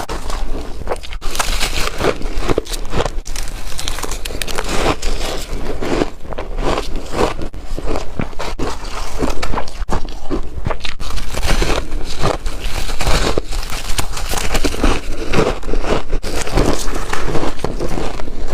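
Chunky ice being bitten and crunched up close: a dense, continuous string of sharp cracks and crunches.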